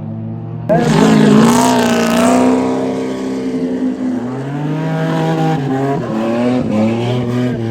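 Dirt-circuit race cars' engines revving hard around the track, several engines rising and falling in pitch over one another. The sound gets suddenly louder less than a second in.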